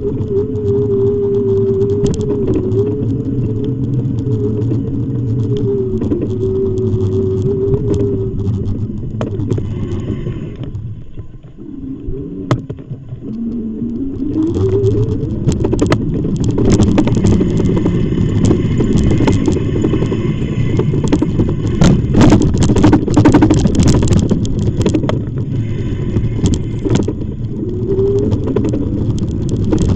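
Electric bike motor whining steadily over a rumble of wind and road noise, with rattles over bumps. The whine and rumble drop away around eleven seconds in, and the whine rises again in pitch a few seconds later.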